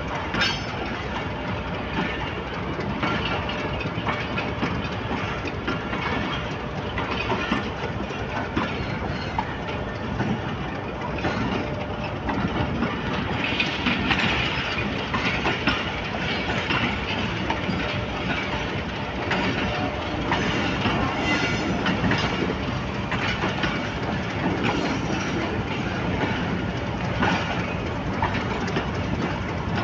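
Passenger train coaches rolling past, a steady rumble of wheels on rail with clicks as they run over the rail joints.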